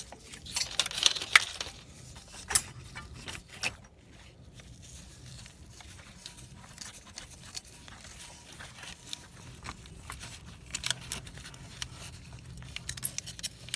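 Hand tool scraping and picking at caked-on carbon deposits on an intake valve of a 2003 Chevrolet Trailblazer engine: irregular scratching and clicking, busiest in the first few seconds and again near the end. The deposits are heavy carbon and oil residue built up on the valve, behind the engine's rough idle.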